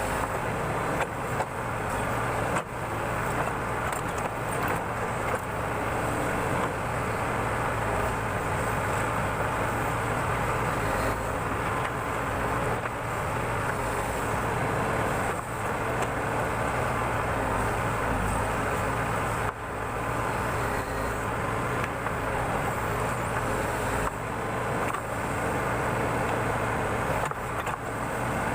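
Backhoe loader's diesel engine running steadily under working load while it digs, with a few short knocks from the digging gear.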